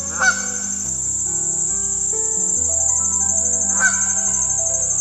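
A steady, high, pulsing trill of insects over background music, with two short chirps, one just after the start and one near four seconds in.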